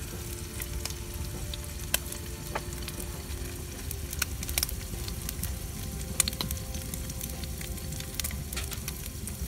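Food sizzling in a hot pan over the heat, a steady hiss with scattered sharp pops and crackles.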